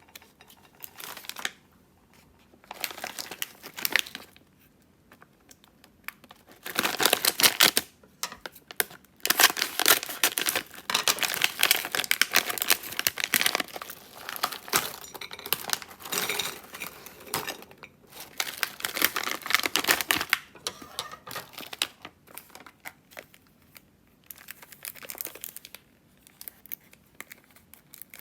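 Packaging crinkled and torn open by hand, in irregular bursts of crackling with short pauses between.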